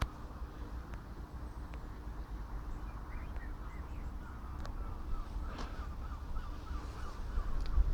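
Birds chirping faintly over a steady low rumble of outdoor ambience.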